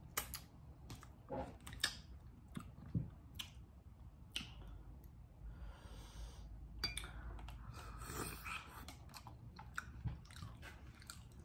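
Close-miked wet mouth sounds: sharp lip smacks and sucking as sauce is licked off the fingers, then chewing.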